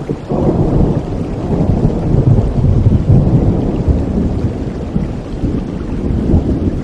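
Steady rain with a long rolling rumble of thunder that swells in about half a second in, peaks a couple of seconds later and slowly dies away.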